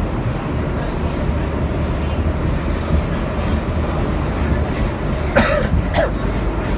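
Kawasaki R62 subway car running at speed, a steady low rumble of wheels on rail and running gear heard from inside the car. Two short, sharp noises stand out near the end.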